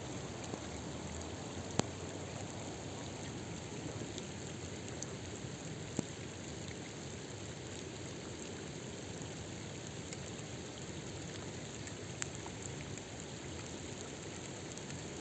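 Steady water noise with three sharp clicks, about two, six and twelve seconds in.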